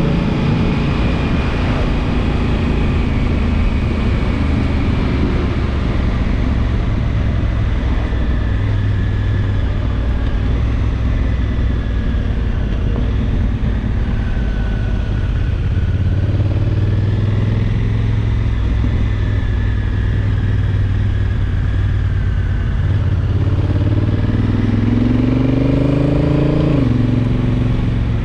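Honda Africa Twin's 270-degree parallel-twin engine running at a steady cruise, with wind and road noise over it. Near the end the engine pitch rises for a few seconds and then drops suddenly as the DCT dual-clutch gearbox shifts up.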